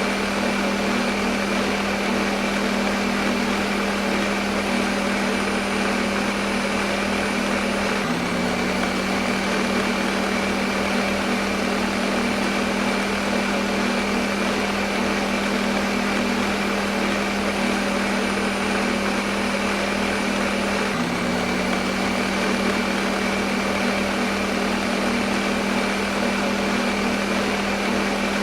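Electric kitchen blender motor running continuously, a steady hum over an even whirring noise. The hum dips briefly twice, about eight and twenty-one seconds in, then settles again.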